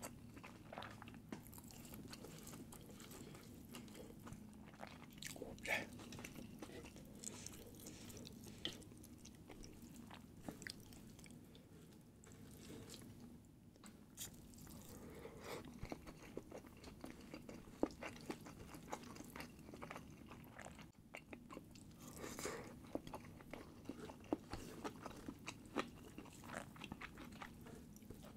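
Close-miked eating sounds: a person chewing food, with many small wet clicks and smacks at irregular intervals and a sharper click a little past halfway.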